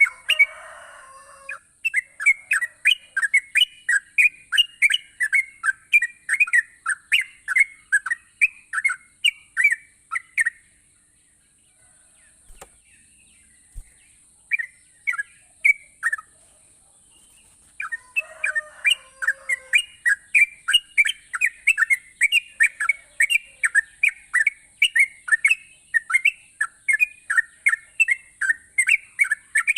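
Yellow-vented bulbul (trucukan) singing in long runs of quick, sharp repeated notes, about five a second, breaking off for a few seconds near the middle. A faint steady high hiss lies under it.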